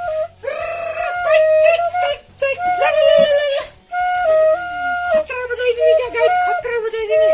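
A flute played solo, a simple melody of held notes stepping up and down, in short phrases with brief breaks between them.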